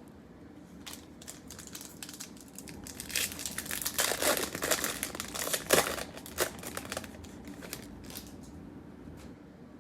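Trading card pack wrappers being torn open and crinkled by hand, a dense run of crackling that builds up and is loudest in the middle, then thins out.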